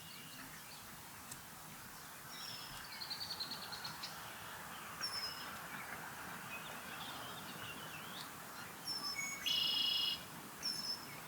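Birds calling over a steady outdoor hiss: a rapid run of high chirps a few seconds in, a few short whistled notes, then a louder, harsher call about three-quarters of the way through.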